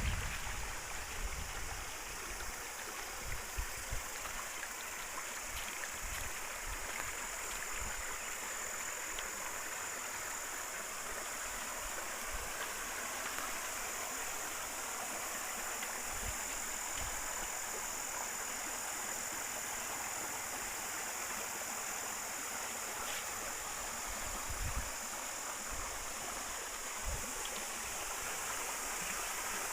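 A river's water flowing steadily over stones, an even rushing babble, with a few brief low thumps scattered through it.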